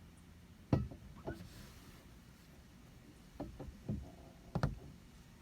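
A handful of light knocks and clicks at irregular spacing, the sharpest about a second in and another near the end.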